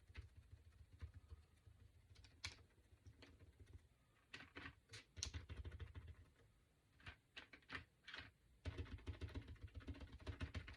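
Faint, irregular light taps and clicks of a makeup sponge dabbing paint onto a wooden cutout, coming quicker and closer together near the end.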